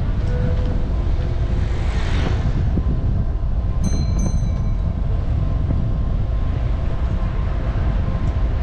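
Steady low rumble of wind and street noise picked up by a camera on a moving bicycle. About halfway through come two short, bright bell rings in quick succession.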